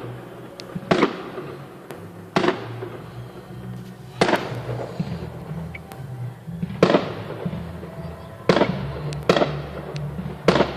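Festive fireworks salute shells bursting, seven loud bangs at irregular intervals of one to two and a half seconds, each trailing off in a short echo.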